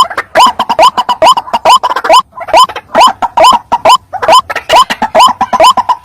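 White-breasted waterhen (ruak-ruak) calling: a loud, fast run of harsh 'kruak' notes, each rising in pitch, about three a second.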